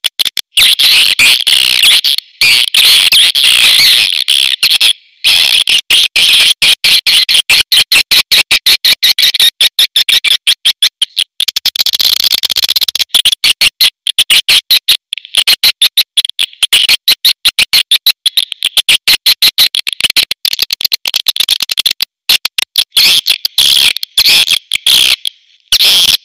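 Recorded swiftlet calls: a dense, rapid chatter of high chirps and clicks with brief pauses, the kind of call track played in swiftlet houses to lure the birds in to roost and nest.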